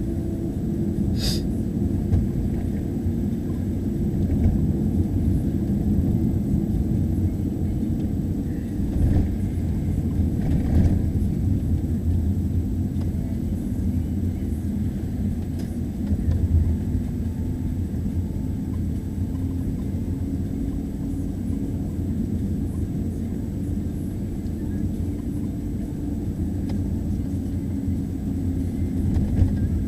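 Steady low rumble of a car driving, heard from inside the cabin, with a short sharp click about a second in.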